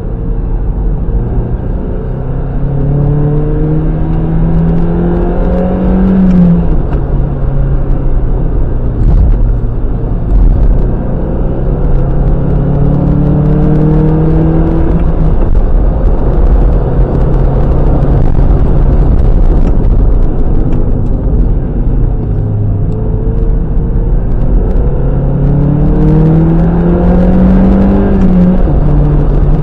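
Mazda MX-5 NB 1.8 inline-four engine heard on board at speed, pulling up through the revs three times. Each pull rises in pitch and ends with a sudden drop as the driver shifts or lifts, over a steady low rumble.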